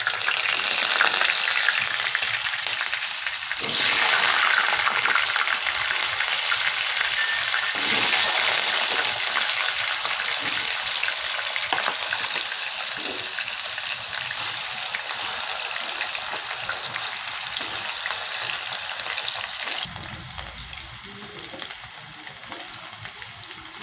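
Potato chunks sizzling in hot oil in a non-stick kadai. The sizzle swells as more pieces go in, about 4 and 8 seconds in, then slowly eases, and it is quieter over the last few seconds.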